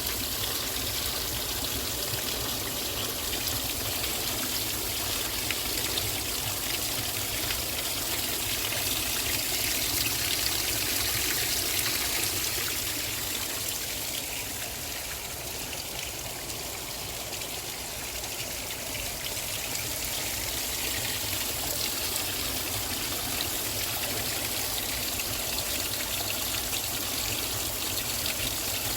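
Steady rain, an even hiss of falling drops and trickling rainwater, easing a little around the middle.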